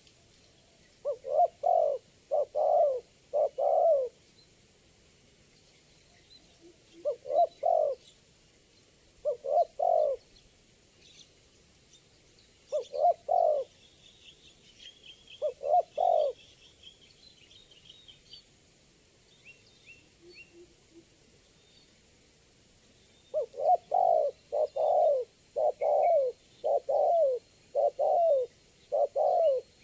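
Spotted dove cooing in short phrases of several coos, with pauses of a few seconds between them, then a steady run of coos in the last few seconds. Faint high chirps of small birds sound between the phrases.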